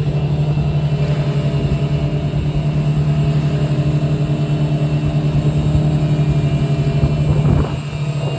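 Boat engine running steadily at cruising speed, a loud pulsing drone that briefly dips in level near the end.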